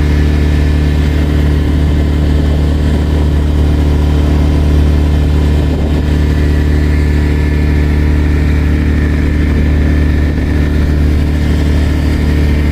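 Boat engine running steadily at a constant speed, a deep, even drone.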